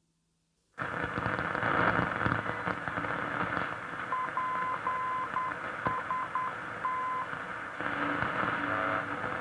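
Grundig Satellit 3400 world receiver tuned to longwave, its speaker giving a steady rush of static and band noise. About halfway through, a keyed tone beeps in short and long pulses, dots and dashes, for about three seconds.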